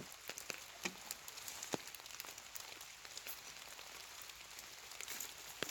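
Light rain falling in a forest, a faint steady hiss with irregular drops ticking sharply on leaves and surfaces.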